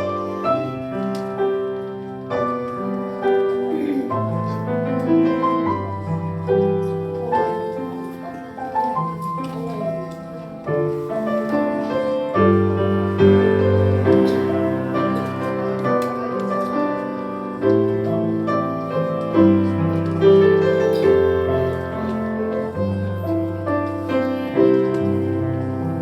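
Instrumental music led by piano: a continuous flow of struck notes and chords with no singing.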